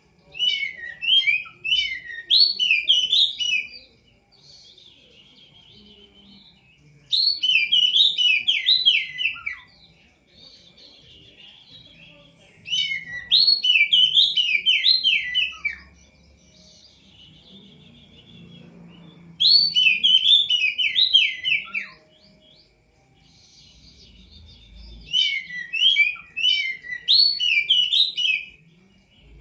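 A songbird called 'burung poci' singing five bursts of fast, rising and falling whistled notes, each about three seconds long and about six seconds apart.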